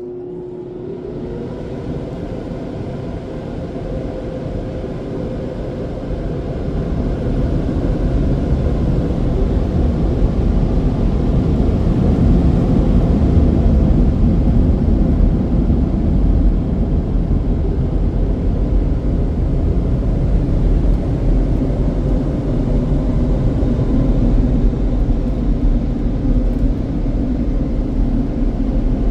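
Car wash dryer blowers running, building up over the first several seconds and then holding a loud, steady rumble with a low hum.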